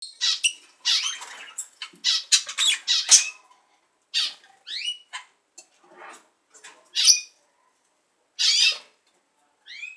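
Budgerigars squawking and chirping: a dense run of short, high calls over the first three seconds, then scattered single calls, some sweeping upward in pitch.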